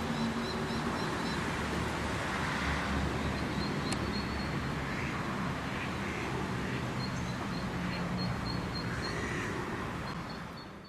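Birds singing in short repeated chirps, with a crow cawing several times in the second half, over a steady hiss of rain. Everything fades out at the very end.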